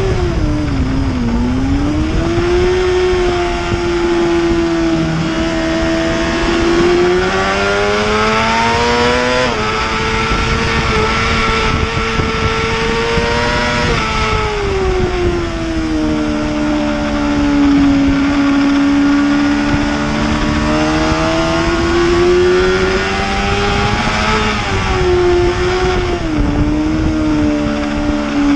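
Superbike engine running hard on a race track: its pitch climbs, drops sharply as it shifts up a gear, and sinks smoothly when it slows for corners. A steady rushing noise runs under it.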